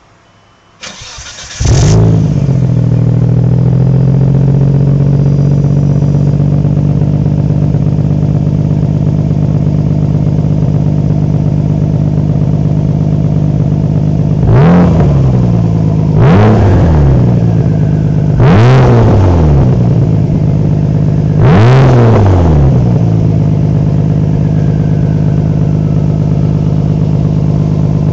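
Car engine breathing through a Tomei Expreme Ti titanium exhaust: cranked on the starter and catching within about two seconds, then settling into a steady idle. Four short throttle blips come in the second half, each rising and falling back to idle.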